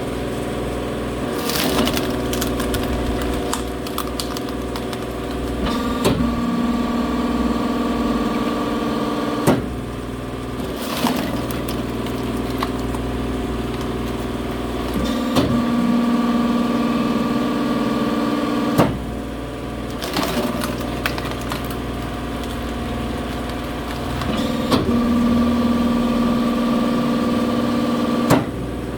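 Engine-driven log splitter working through firewood over a steady engine hum. Three times, a held straining tone builds as a log is pushed, then ends in a sharp crack as the wood splits, about every nine seconds.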